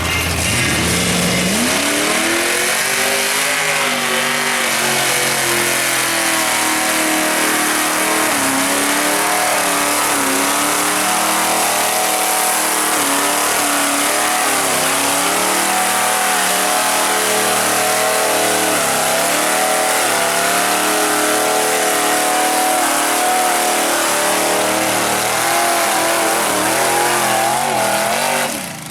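Tractor-tire mud truck engine revving hard. It climbs in pitch over the first two seconds, then is held at high revs with the pitch wavering, dipping briefly several times as it runs through the mud pit.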